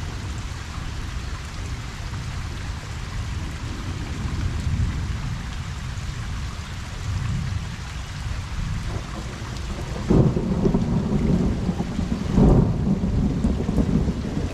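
Steady rain falling on a pond. About ten seconds in, a rumble of thunder rolls in and swells again near the end.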